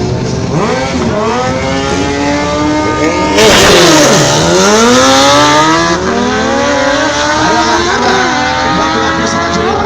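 Drag-racing sport motorcycle engines revving at the line, then launching hard about three and a half seconds in. The pitch climbs and drops back at each gear change as the bikes accelerate away.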